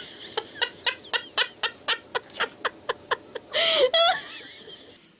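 A bird calling: a quick run of about a dozen short clucks, about four a second, then a longer, louder call near the end.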